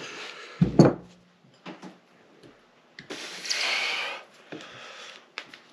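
Two dull knocks of a mallet tapping on the engine's parts just under a second in, then about a second of scraping and a few light clicks as metal engine parts are handled.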